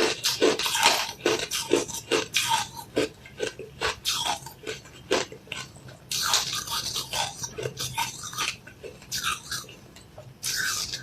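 Close-miked chewing of hard frozen-cola ice: a quick run of sharp crunches and cracks, with a longer grinding crunch about six seconds in.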